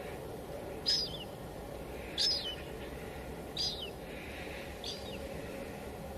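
A bird calling four times at an even pace, about one call every second and a half, each a short high note that drops at the end, over the steady hiss of light drizzle.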